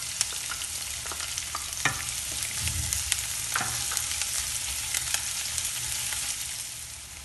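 Chopped onion sizzling in hot oil with ginger and garlic, with a wooden spatula scraping and knocking against the pan as it is stirred. The sizzle grows quieter near the end.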